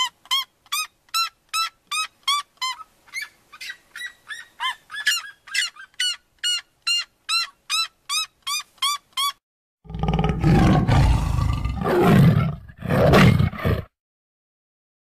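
Red-legged seriema calling: a rapid, even series of loud yelping calls, about two and a half a second, lasting about nine seconds. From about ten seconds in, a tiger roars in three long, rough bursts.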